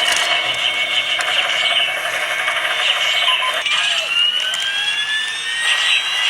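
Electronic sound effects from the Matchbox Strike Hawk helicopter toy's sound unit: a steady high-pitched whirring buzz, with siren-like tones that rise in pitch from a little past the middle.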